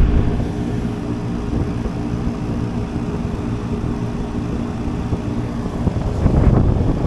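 Steady low mechanical hum of a running machine, with a louder rumble swelling up about six seconds in.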